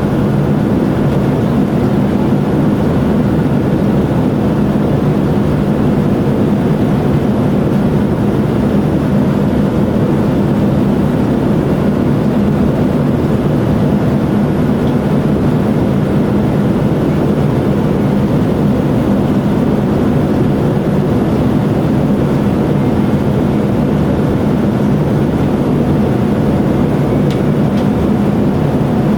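Steady drone of a Boeing 787-9's engines and airflow heard inside the passenger cabin, a constant low rumble with faint steady tones above it.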